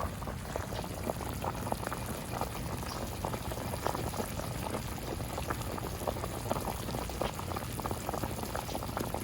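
Haesintang broth boiling hard in a large pot over a wood fire, with rapid irregular bubbling and popping.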